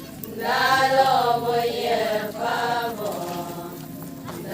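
Voices chanting an Adi ponung song in a drawn-out, sustained melody. One sung phrase lasts about two seconds, a shorter one follows, and then the singing drops quieter near the end before the next phrase.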